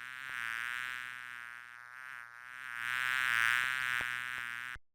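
A bee buzzing: a steady, dense drone that swells louder twice and cuts off abruptly near the end.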